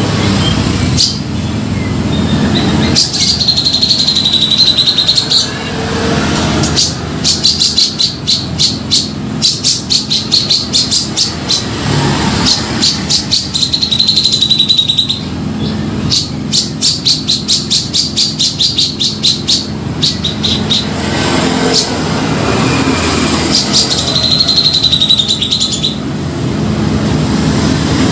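Grey-cheeked bulbul (cucak jenggot) singing energetically. It repeats a wavering high note held for about a second and a half three times, between long runs of rapid sharp chattering notes, over a steady low rumble.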